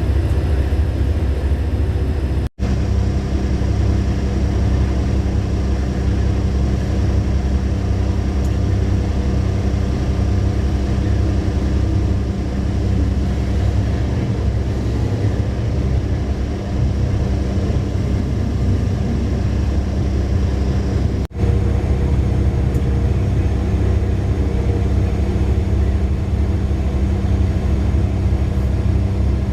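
Large mining haul truck's diesel engine running with a steady, heavy low rumble and a constant hum, broken off for an instant twice.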